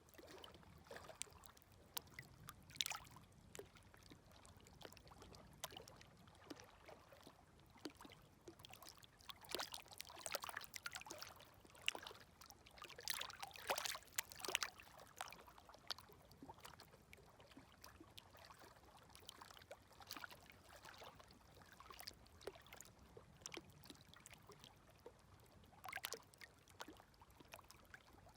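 Gentle micro-waves lapping at the shore: faint splashes and trickles over a soft wash, coming in small clusters, with the busiest, loudest run of splashes in the middle.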